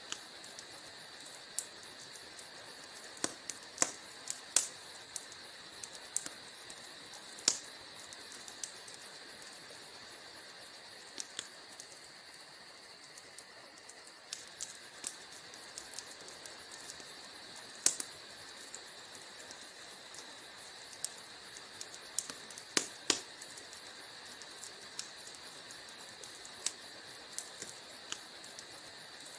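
Wood fire crackling in a fireplace: irregular sharp pops and snaps of burning logs over a steady hiss, with a few louder pops scattered through.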